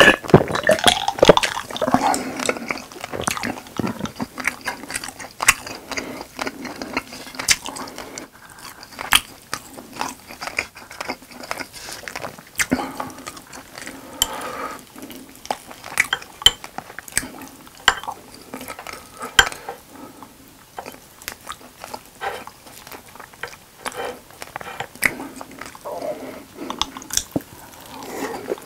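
Close-miked mouth sounds of a person chewing and biting pieces of grilled grilling cheese, a run of irregular small clicks and wet smacks. In the first couple of seconds there are gulps of a drink being swallowed.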